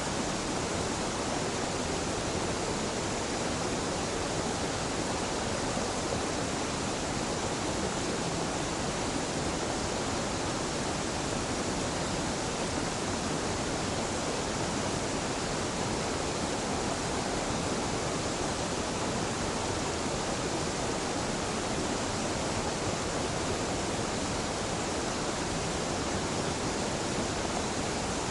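A small, gentle waterfall pouring steadily: an even rush of falling water that does not change.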